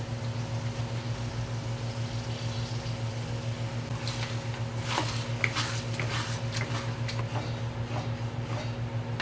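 A steady low electrical hum, with a few soft clicks and scrapes of a spoon stirring spaghetti sauce into ground beef in a pan about four to seven seconds in; the sizzling has stopped.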